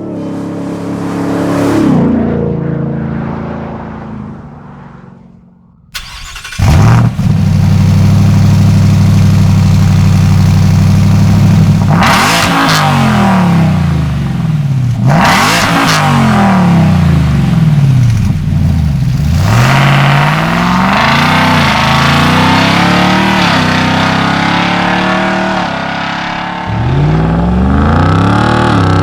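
2023 Ford F-150 Raptor R's supercharged 5.2-litre V8 through a Borla aftermarket exhaust, revving up and down repeatedly. Near the start it fades away, then comes back suddenly loud about six seconds in and keeps rising and falling in pitch.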